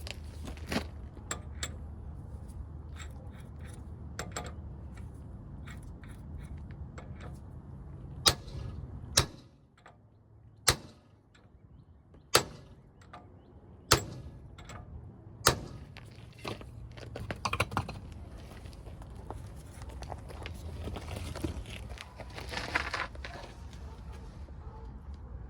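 Metal tools clinking and knocking against the Ram 1500's front axle assembly as the new axle shaft is worked into place, with six loud sharp knocks about a second and a half apart in the middle and a stretch of rattling and scraping near the end.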